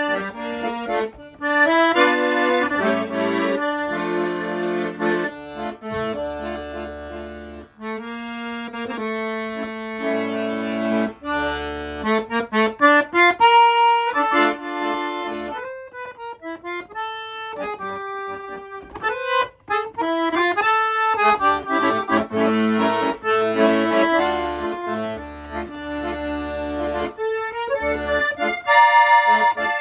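Weltmeister half-size piano accordion (26 treble keys, 40 bass) being played: a melody on the treble keys over bass and chord notes from the left-hand buttons.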